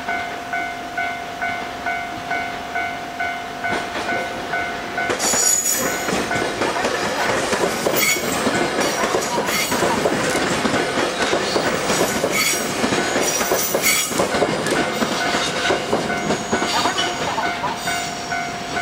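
A Japanese level-crossing alarm bell rings in a steady, even clang. About five seconds in, an electric train passes over the crossing for some twelve seconds, loudly, with wheels clacking over rail joints. The bell keeps ringing underneath and can be heard clearly again as the train fades.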